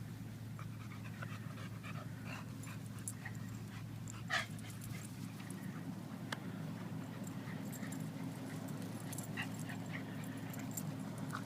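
A dog panting, with scattered light clicks and one louder click about four seconds in.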